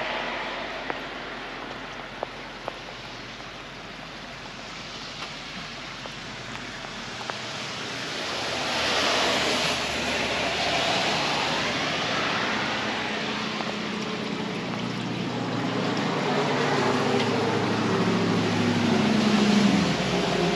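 Vehicles passing on a rain-wet road: tyre hiss swells about eight seconds in, and a low engine sound builds toward the end.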